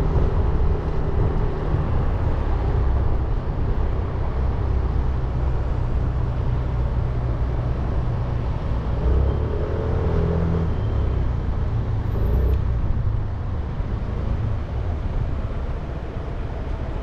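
A 300cc motorcycle engine running steadily while riding through city traffic, with wind and road noise.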